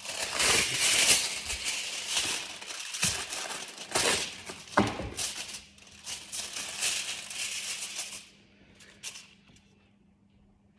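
Cooking spray hissing from an aerosol can in uneven bursts, with a few sharp knocks, stopping about eight seconds in.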